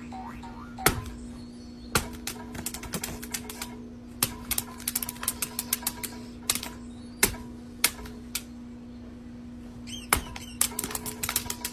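Sharp, irregular clicks and taps, some single and some in quick clusters, over a steady low hum.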